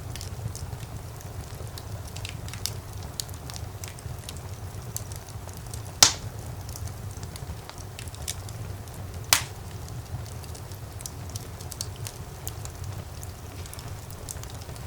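Wood fire crackling in a fireplace: many small scattered snaps over a steady low rumble, with two sharp, louder pops, one near the middle and another about three seconds later.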